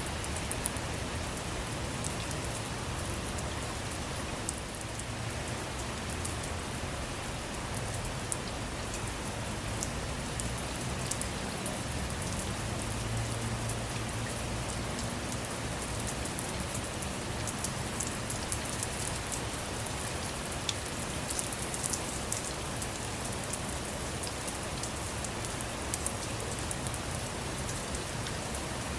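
Steady rain falling on a car's roof and windows, with many scattered, sharper drop impacts.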